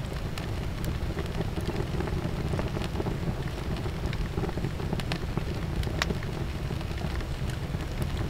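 Campfire crackling and popping in irregular sharp snaps, over a steady low rumble of wind on the microphone.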